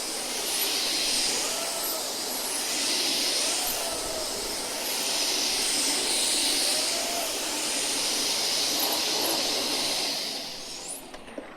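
Samsung Calypso bagless cylinder vacuum cleaner running on max power with its pet brush head. The rush of suction swells and eases every couple of seconds, then dies away near the end.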